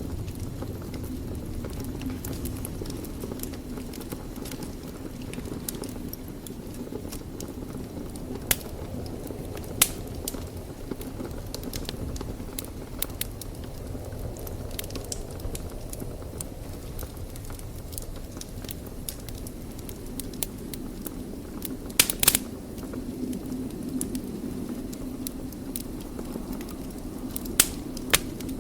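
Wood fire burning in a fireplace: a steady low rush of flame with frequent sharp crackles and pops, a louder burst of pops about two-thirds of the way through and a few more near the end.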